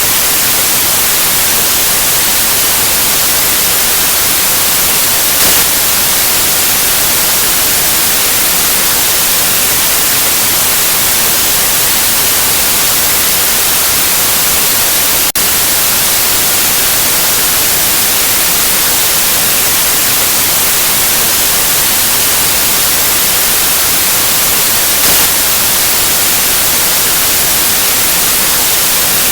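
Steady white noise: an even, constant hiss.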